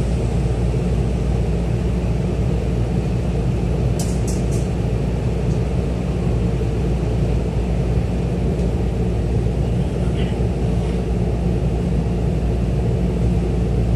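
Running noise inside a Tokyo Metro 10000 series electric train car: a steady rumble of the car and its wheels on the rails as the train gets under way, with a few sharp clicks about four seconds in.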